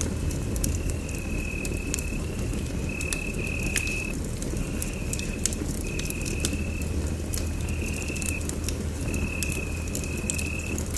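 Wood fire crackling in a fireplace: frequent sharp pops and snaps over a low steady rumble. A thin high tone comes and goes every second or so alongside it.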